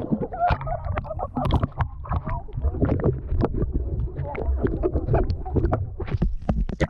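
Water splashing and sloshing in a swimming pool, a busy run of many small, quick splashes over a low churning rumble.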